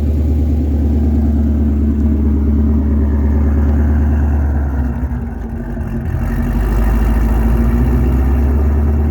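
2020 Shelby GT500's Whipple-supercharged V8, on an E85 tune, idling steadily. Its sound dips briefly and unevenly about five seconds in before settling again, while the idle is still being worked out in the tune.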